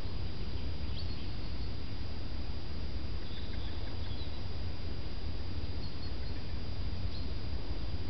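Steady low rumble with a few faint, short high-pitched bird chirps: one about a second in, a small cluster around three to four seconds, and another near the end.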